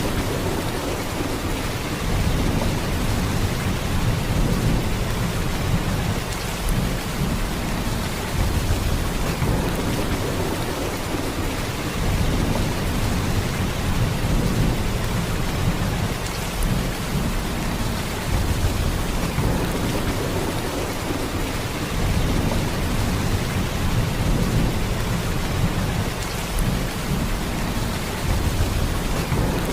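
Heavy rain: a steady downpour with a deep low rumble underneath that swells and eases every few seconds.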